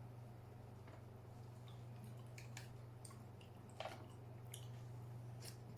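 Faint, scattered clicks and crackles of a king crab leg shell being handled and cracked to get at the meat, with a somewhat louder crack about four seconds in, over a steady low hum.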